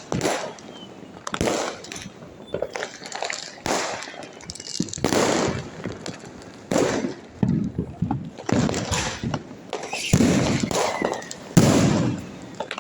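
Diwali firecrackers and fireworks going off one after another, about ten sharp bangs spaced irregularly roughly a second apart.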